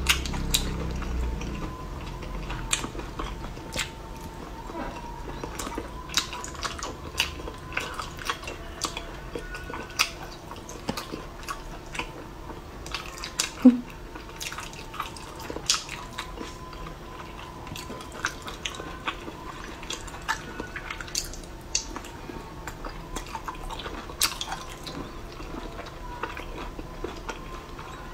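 Close-miked eating of saucy snail meat: irregular wet clicks, smacks and squelches of chewing and of fingers working the meat, with one louder click about halfway through. A faint steady high tone hums underneath.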